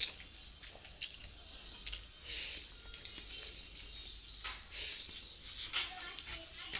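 Close-miked eating sounds: wet chewing and lip smacks from a mouthful of rice with bottle gourd, in short sharp clicks and smacks at uneven intervals, with fingers working rice on a steel plate.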